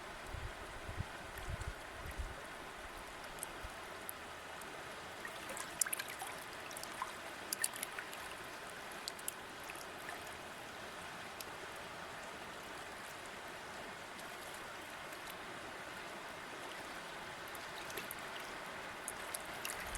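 A stream running steadily, a continuous rush of water with small splashes and drips now and then, clustered near the middle.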